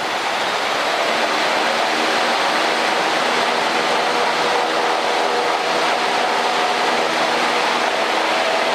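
Cessna 152's four-cylinder Lycoming engine and propeller running steadily at full power for the takeoff roll and climb-out of a touch-and-go, heard inside the cabin.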